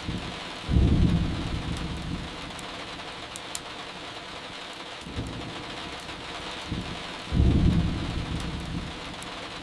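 Steady rain with two low thunder rumbles, one about a second in and another near the end, each swelling suddenly and fading over a second or two. Faint sharp crackles of burning firewood tick here and there over the rain.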